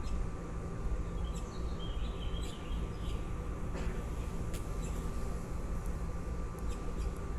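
Baby birds chirping briefly, a few short high chirps about a second and a half in and again near the end, over a steady low rumble and a thin steady tone.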